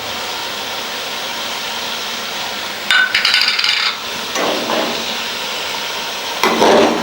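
Chicken frying in ghee in a karahi with a steady hiss. A cooking utensil clatters and scrapes against the pan for about a second, three seconds in, and knocks again briefly twice later.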